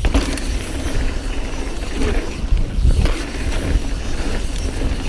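Mountain bike running fast down a dirt trail: tyre noise with scattered knocks and rattles from the bike, and a heavy wind rumble on the microphone.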